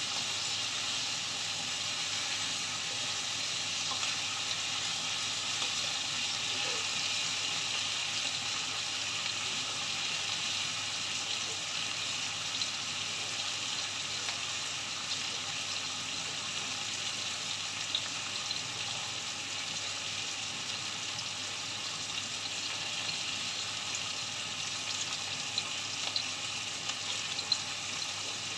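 Chicken wings and sliced onion sizzling in hot oil in a wok, a steady frying hiss with a few sharper pops near the end.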